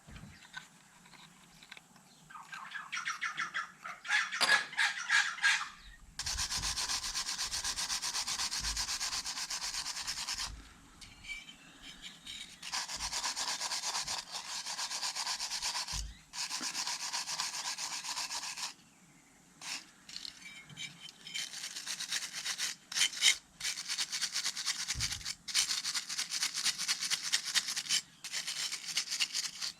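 Abrasive scrubbing done by hand, in several bouts of a few seconds each with short pauses between them, and a few knocks.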